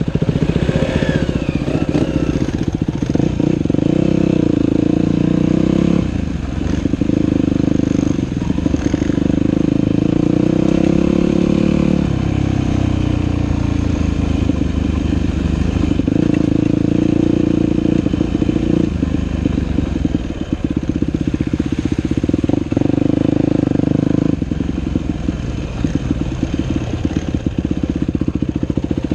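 Dirt bike engine running on a trail ride, its revs rising and falling with the throttle, with brief dips in the engine note now and then.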